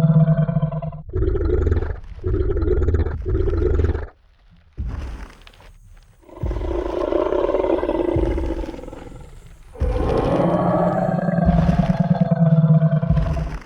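Designed Tyrannosaurus rex sound effect: a deep roar, three short growls, then two long, drawn-out roars, with heavy footstep thuds in the pauses.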